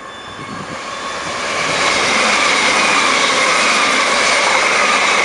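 Electric multiple unit passing through the station at speed: a rush of wheels on rail that builds over the first two seconds and then holds loud, with a steady high whine over it.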